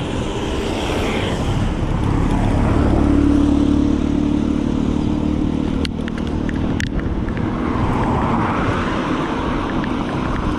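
Road traffic: a motor vehicle's engine passing close, its hum loudest about three to four seconds in and fading by about seven seconds, over a steady rush of road noise. Two sharp clicks near the middle.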